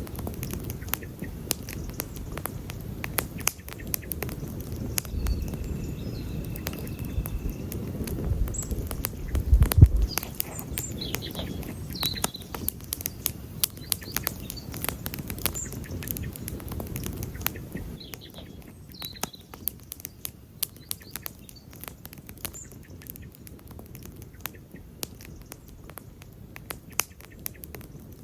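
Wood campfire crackling, with many sharp pops over a low rumble that eases after about 18 seconds. A louder thud comes about ten seconds in.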